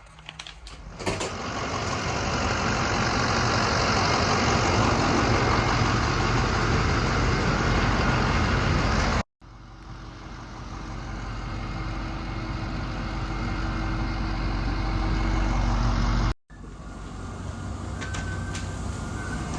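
Box truck running, a steady engine hum and rumble, heard in three stretches that each cut off abruptly.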